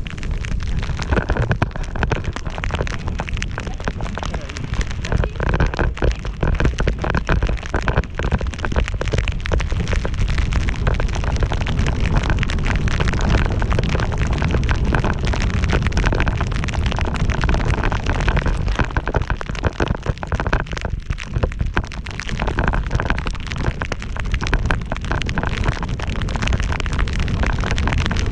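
Wind buffeting a GoPro MAX camera's microphones during a fast ski or snowboard descent through powder in a blizzard: a dense, steady rumble with constant crackling and hiss.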